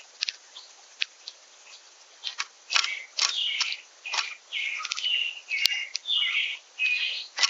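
Small songbirds calling and singing: scattered sharp chip notes at first, then from about two and a half seconds in a fast, continuous run of chirping song phrases. A single sharp click sounds just before six seconds.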